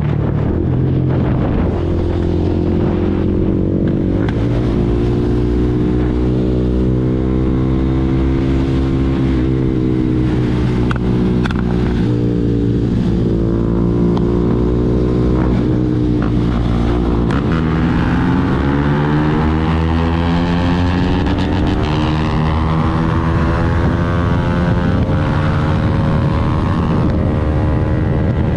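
KTM Duke 390's single-cylinder engine through an Arrow full-system exhaust, ridden hard at highway speed, its pitch dipping and climbing through gear changes, with a sharp drop and steep climb about two-thirds through.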